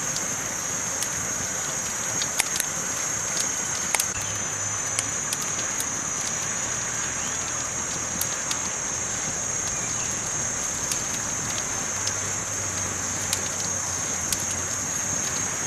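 Campfire burning: a steady hiss with irregular sharp pops and snaps of the burning wood.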